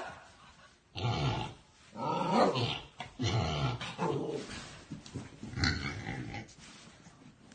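A dog growling in a string of short growls, about five, each under a second, trailing off near the end.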